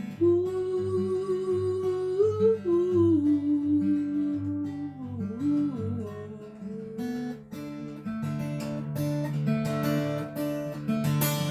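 Acoustic guitar strumming a steady chord pattern in an instrumental break of a folk song, with a wordless hummed melody held over it for the first half before the guitar plays on alone.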